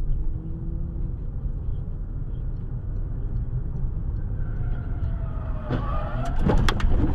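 Steady low rumble of a car on the road, then about six seconds in a rapid cluster of sharp bangs and knocks, the loudest thing here, typical of a collision.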